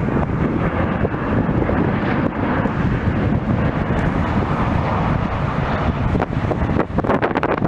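Jet airliner engine noise, a loud steady rush that swells in the middle, with wind buffeting the microphone.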